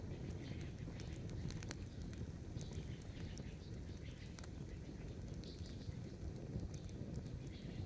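Campfire crackling, with scattered small pops and snaps over a steady low rumble.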